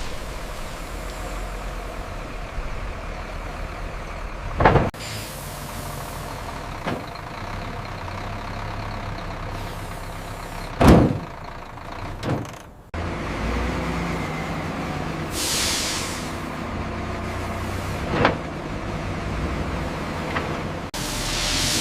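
Heavy diesel construction machinery running steadily, with a few sharp knocks along the way and a couple of short hisses.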